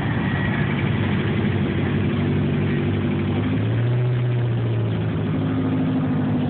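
Car engine idling steadily, its pitch shifting slightly about halfway through.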